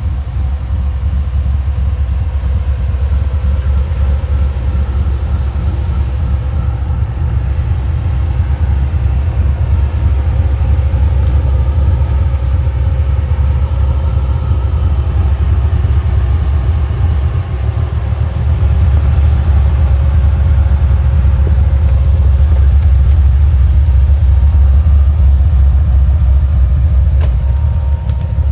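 Off-road vehicle's engine running steadily at low revs, a deep rumble that grows a little louder about two-thirds of the way through.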